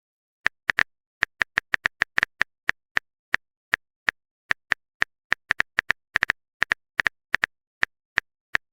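Typing sound effect: an irregular run of short, sharp key clicks, about three or four a second, starting about half a second in, with dead silence between them.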